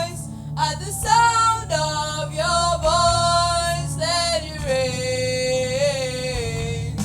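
Worship song being sung, led by a woman's voice over a low, steady accompaniment, ending on one long held, wavering note.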